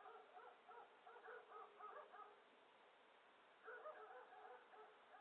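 Faint, rapid chirping calls, most likely birds, in two bursts: one lasting about two seconds, then a second, shorter one starting a little past three and a half seconds in.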